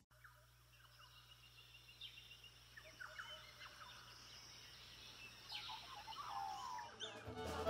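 Faint bird calls: scattered short chirps and quick rising and falling whistles, a little louder near the end, over a faint low steady hum.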